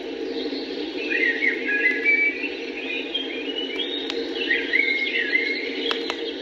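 Wild birds singing, a run of short whistled phrases rising and falling in pitch, over a steady low rushing background. There are a few sharp clicks near the end.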